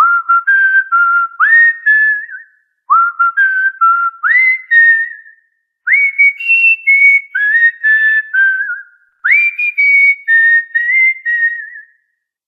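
Cockatiel whistling a short tune in four phrases, each opening with a quick upward swoop into several held and warbling notes, with brief pauses between phrases.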